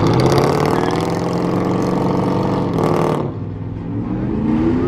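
Car engine revved hard and held for about three seconds, then the throttle is let off and the revs drop. Near the end the revs climb again.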